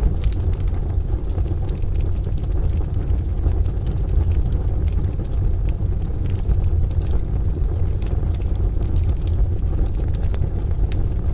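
Wood fire crackling in a stove, with sharp pops scattered irregularly throughout, over a steady low rumble.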